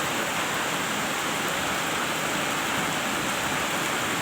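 Heavy, steady rain falling.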